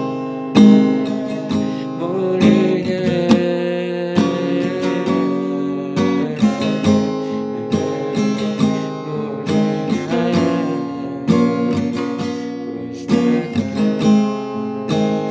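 Acoustic guitar strumming chords, the instrumental outro of the song with no singing.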